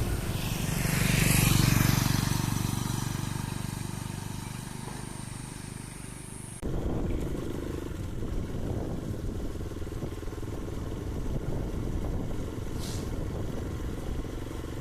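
Karizma motorcycle engine running while the bike is ridden, with wind and road noise. The engine note swells over the first couple of seconds and then eases. About halfway through it changes suddenly to a rougher, windier rumble, with a brief hiss near the end.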